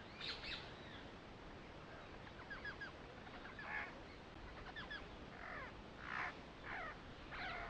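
Birds calling over a faint hiss: scattered short chirps and a few harsher calls that grow more frequent in the second half.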